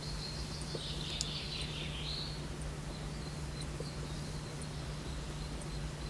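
A bird calls faintly for about a second and a half, starting just under a second in and ending with a short upward sweep, over a steady low hum and a faint steady high whine.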